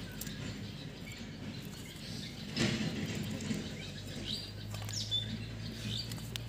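Small birds chirping in short, high calls, mostly in the second half, over a steady low hum. A short louder noise comes about two and a half seconds in.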